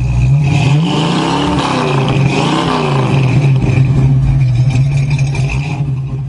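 Subaru WRX turbocharged flat-four running through a cat-less 3-inch stainless turbo-back performance exhaust, blipped twice about a second apart, the revs rising and falling each time, then holding steady.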